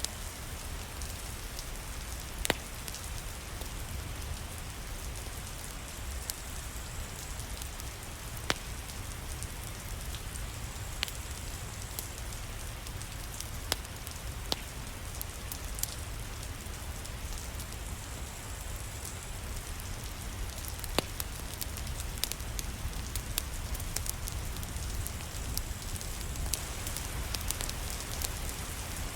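Steady rain with a wood fire crackling, sharp pops every few seconds that come more often near the end.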